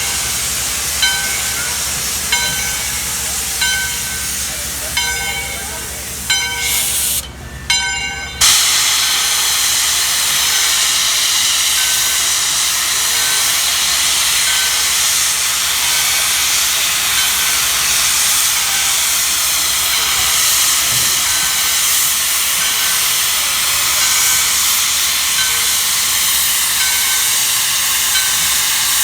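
Steam locomotive at a standstill, letting off a loud, steady hiss of steam from about eight seconds in. Its bell rings over it evenly, about once every second and a half.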